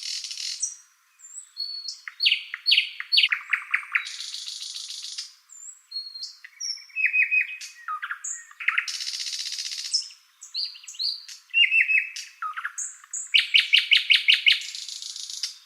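A songbird singing a varied song of fast trills, short whistled notes and buzzy rattling phrases about a second long, repeated in bouts with short pauses between them.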